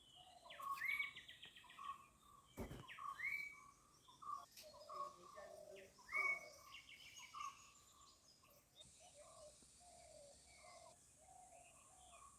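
Birds chirping: a busy run of short call notes with a few rising whistles, about one, three and six seconds in, growing sparser in the second half. A single sharp click comes a little under three seconds in.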